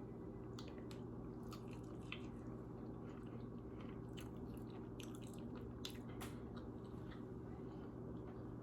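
A person chewing a bite of orange chicken, a run of small crunchy clicks over a few seconds, over a steady low hum.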